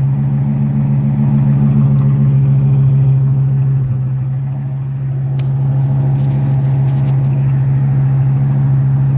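2002 Fleetwood Storm motorhome engine idling steadily, running for the first time after eight years of sitting. The level dips briefly about four seconds in, then recovers.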